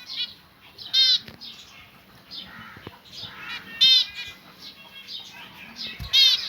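Pet finches calling: three loud calls spaced about two and a half seconds apart, with softer chirps in between.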